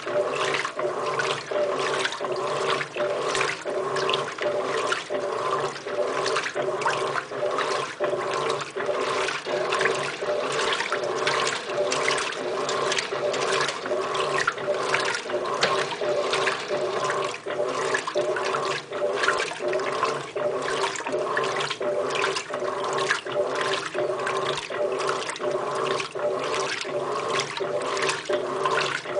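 Electrolux LTR15 top-loading washing machine agitating on its heavy-soil cycle: the agitator swishes the water and load back and forth in an even rhythm of about two strokes a second, over a steady motor hum.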